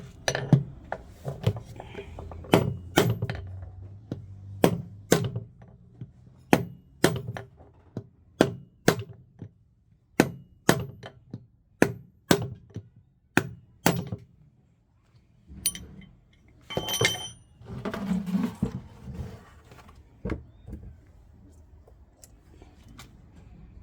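Hammer blows knocking out a washing machine's drum bearing, a steady run of about twenty sharp strikes roughly every half second to second, then a pause and a few seconds of metallic rattling.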